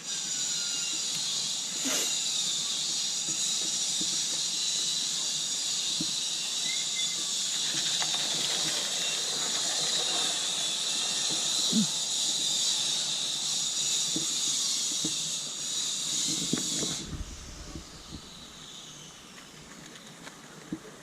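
Live-steam model locomotive (Roundhouse Silver Lady) hissing steadily as steam vents at full working pressure of about 40 psi. The hiss cuts off suddenly about seventeen seconds in, with a few light knocks along the way.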